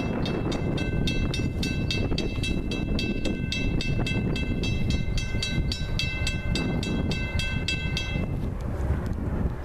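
Railroad grade-crossing bell ringing rapidly and steadily over the low rumble of a passing train; the bell stops about eight seconds in while the train rumble carries on.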